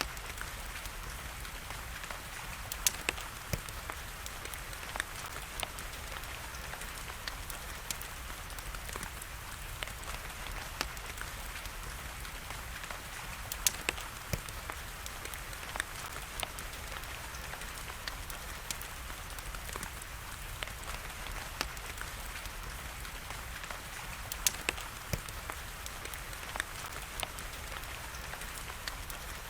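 Steady rain patter mixed with a crackling wood fire: a constant hiss of rain with scattered sharp crackles and a few louder pops from the burning logs.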